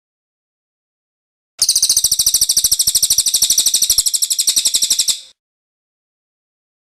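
Cililin bird singing its rolling trill: one rapid, even, high-pitched trill of about a dozen notes a second, lasting some three and a half seconds, starting about a second and a half in, with dead silence on either side.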